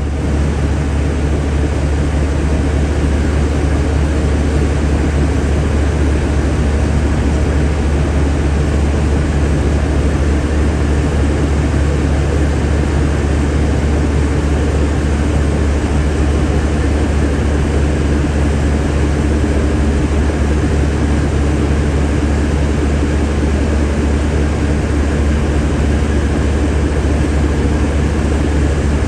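Steady low drone of an idling diesel truck engine, with an even hiss over it.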